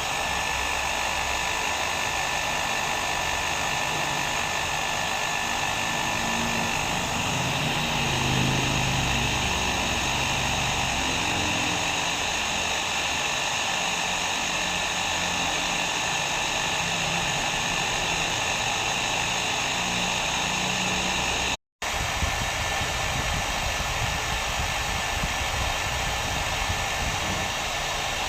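Hair dryer blowing steadily: an even rush of air with a faint constant whine. It cuts out for a split second about three-quarters of the way through, then carries on unchanged.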